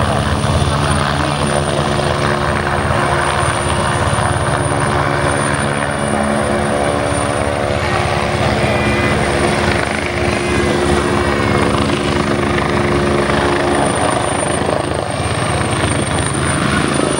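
Helicopter hovering, its rotor and engine giving a steady, continuous hum, with a thin high whine on top.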